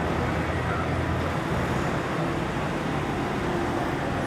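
Steady street traffic noise, with a vehicle engine running at a constant pitch.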